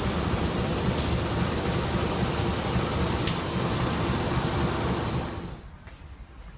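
Passenger train running: a steady rumbling rush of noise with a couple of faint sharp clicks, dropping suddenly to a much quieter level a little after five seconds in.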